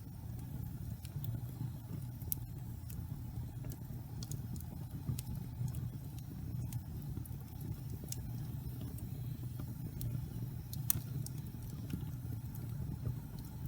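Wood fire burning in a fireplace: a steady low roar of the flames with irregular sharp crackles and pops, one louder pop about eleven seconds in.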